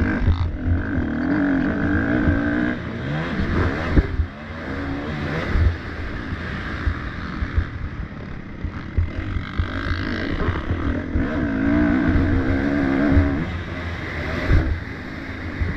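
Motocross dirt bikes racing, their engines revving up and down in pitch as they accelerate and shift.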